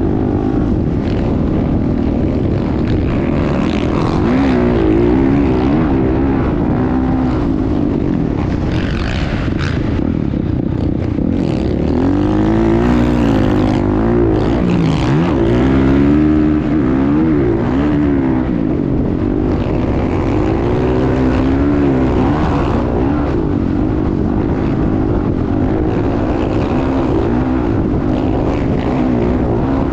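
Motocross bike engine revving hard as it is ridden, its pitch rising and falling over and over with the throttle.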